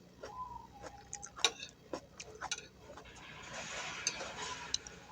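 Close-miked eating sounds: chewing with scattered sharp mouth clicks and smacks, and a longer noisy chewing stretch in the second half.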